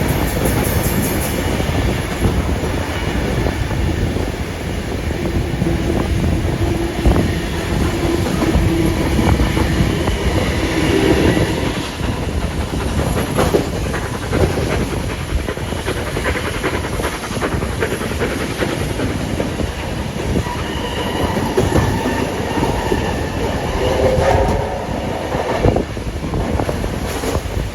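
Passenger carriage of a steam-hauled train running along the line, heard from on board, with the wheels clattering over the rail joints in a continuous clickety-clack.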